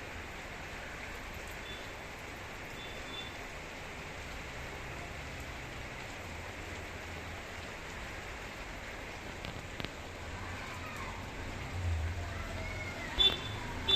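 Heavy rain falling steadily, a constant even hiss. Near the end a low rumble builds, like a vehicle approaching, with a couple of short sharp sounds about a second before the end.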